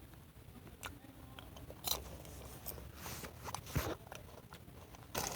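Popcorn being bitten and chewed close to the microphone: irregular crunches, a handful of them spaced about a second apart.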